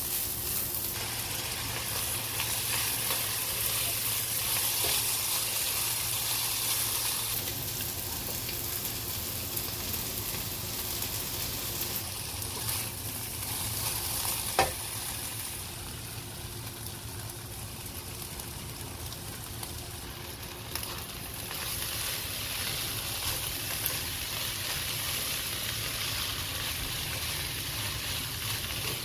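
Fried rice sizzling in a wok while a silicone spatula stirs and scrapes it. The sizzle is a steady hiss, with one sharp knock about halfway through.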